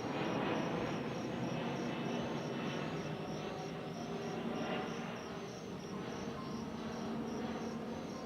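Crickets chirping in a steady, even rhythm of about two chirps a second, over a steady rushing background noise.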